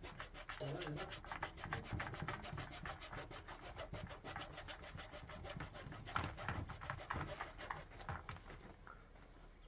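A hand tool rasping with fast, even back-and-forth strokes, such as a saw or file working a pipe or board, that fades out near the end.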